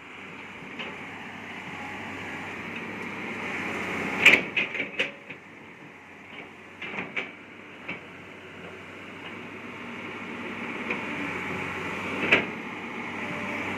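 A heavy vehicle's diesel engine running steadily, with several sharp metal clanks over it. The loudest clanks come about four seconds in and again near the end.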